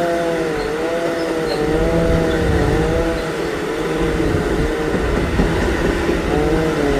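Freight train of Network Rail engineering wagons rolling past behind a DB Class 66 diesel locomotive. There is a steady rumble and a whine that wavers up and down about once a second; the whine drops away about five seconds in and returns near the end.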